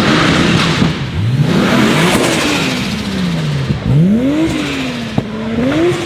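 Sports car engine revved repeatedly while standing: about four sharp rises in revs, each falling back slowly. There is a single sharp pop about five seconds in.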